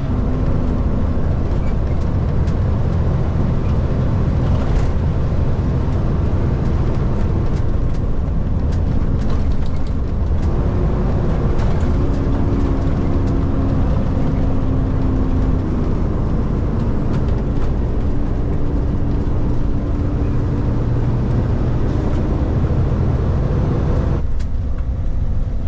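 Kenworth K200 road train's Cummins diesel engine pulling steadily at highway speed, with tyre and road rumble, heard from the cab. The engine note steps slightly in pitch around the middle.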